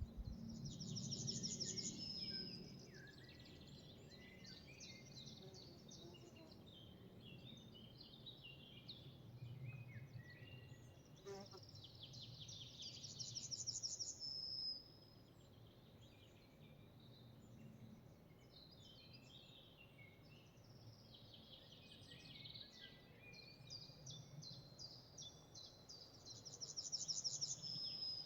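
Forest songbirds singing, with one bird repeating a short, rapid, high trill three times, about every twelve seconds, among quieter calls from other birds over a faint background hush.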